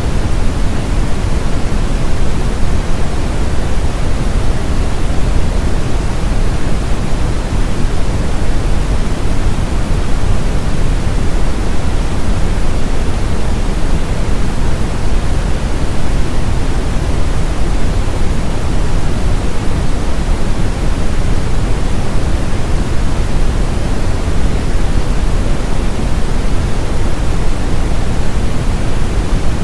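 Steady brown noise: a deep, even hiss that is strongest in the low end and unchanging throughout.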